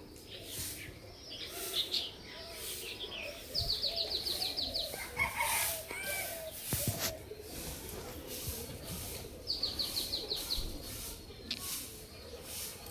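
Pet parrot chirping, with two fast runs of high repeated chirps, about four seconds in and again near ten seconds, and scattered shorter calls between.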